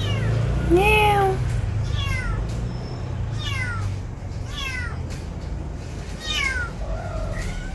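A stray cat meowing over and over, about six short calls falling in pitch, roughly one a second, with one lower, longer meow about a second in. A steady low hum runs underneath.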